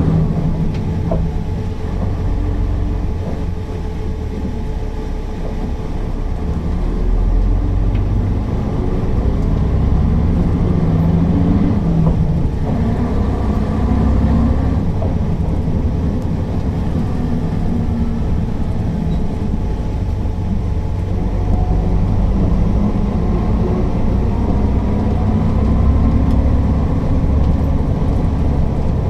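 Mercedes-Benz O408 bus's diesel engine running on the move, a steady low rumble whose pitch rises and falls slowly as the bus pulls away and changes speed.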